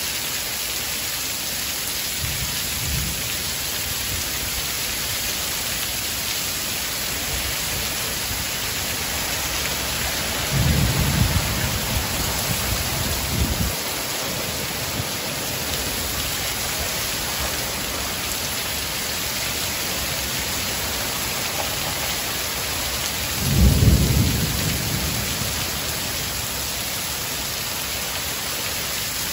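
Heavy rain pouring steadily onto a paved street and lawn in high wind. Deep rumbles rise above the rain twice: a longer one lasting about three seconds, about a third of the way in, and a shorter, louder one later.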